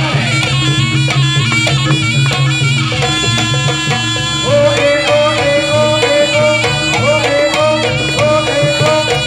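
Live jaranan music: a reedy wind instrument, in the manner of the Javanese slompret shawm, playing a wavering melody over a steady percussion beat.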